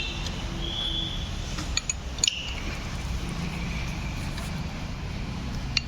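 Steady low rumble of workshop and traffic background, with a few light metallic clinks of tools around two seconds in and again near the end.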